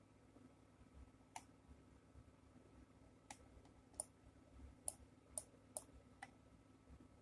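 Faint computer mouse clicks, seven sharp clicks at uneven intervals, bunched together in the second half, over a low steady hum.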